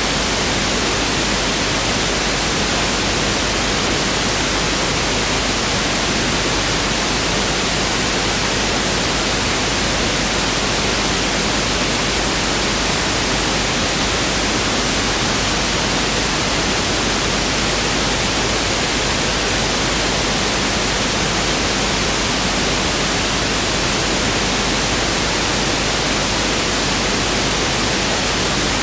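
Pink noise test signal: a steady, unchanging hiss spread across the whole range of pitches, with equal energy per octave.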